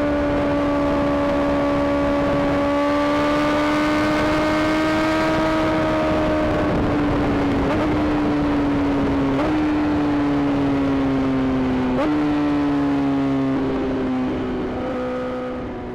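Inline-four sport bike engine running at high revs at a steady speed, with wind rushing past. Partway through, the revs fall as the bike slows, jumping up several times as it is downshifted, and the sound fades toward the end.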